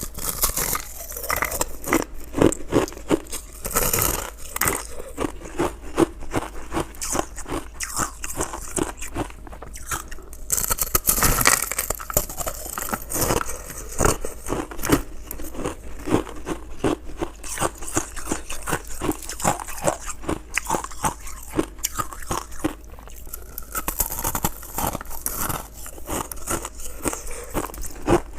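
A person biting and chewing crunchy ice close to the microphone: a dense, irregular run of crisp crunches and cracks.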